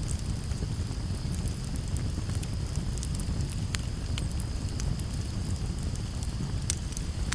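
Campfire burning: wood crackling with scattered sharp pops and snaps over a steady low rumble, with a couple of louder pops near the middle and toward the end. A steady high hiss runs underneath.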